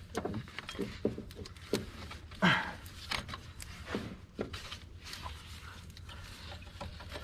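Scattered light clicks and knocks of hands fitting an accessory drive belt around the alternator and engine pulleys, with one short squeak about two and a half seconds in that falls in pitch.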